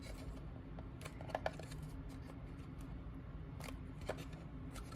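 Scattered light clicks and rustles of foam-board and paper craft pieces being handled and lined up on a work surface, over a steady low hum.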